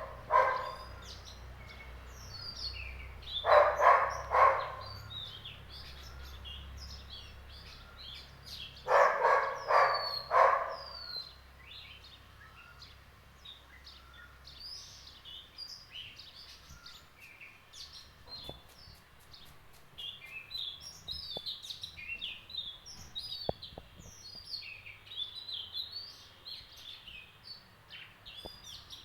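Many small birds chirping and whistling throughout. In the first eleven seconds there are three loud bursts of rapid, repeated calls.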